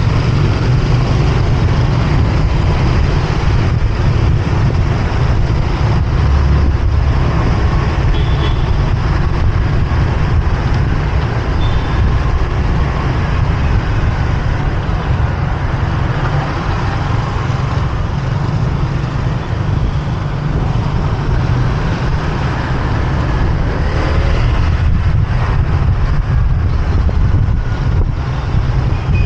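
Motorbike riding through dense city traffic: a steady, loud low rumble with the noise of surrounding cars and motorbikes.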